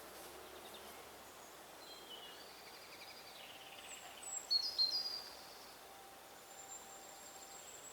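Songbird singing in woodland: a series of short high chirps and whistled notes, loudest about halfway in, over a faint steady outdoor hiss.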